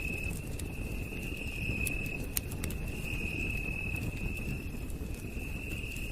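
Campfire crackling with scattered sharp pops, one stronger about two seconds in, over a low rumble, while night insects keep up a steady high-pitched trill.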